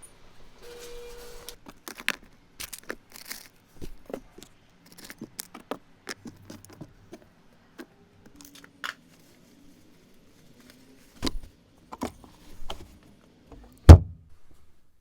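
Things being handled and moved about in a car: a scattered run of clicks, knocks and clatter, with a short rustle about a second in and one loud heavy thump near the end.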